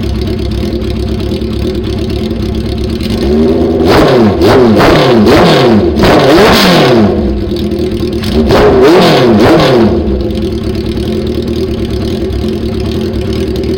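1980 Honda CB650's air-cooled inline-four, breathing through a 4-into-1 header and pod air filters, idling and then revved in a series of quick throttle blips from about three seconds in, with one more blip near the ninth second before it settles back to idle. The idle carries a slight misfire, which the owner puts down to hard-to-adjust idle mixture screws.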